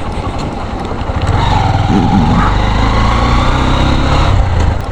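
Motorcycle being ridden, its engine running steadily under wind and road noise, getting louder about a second and a half in.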